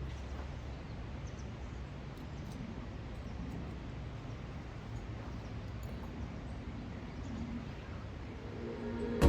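Steady low background noise with a few faint high ticks.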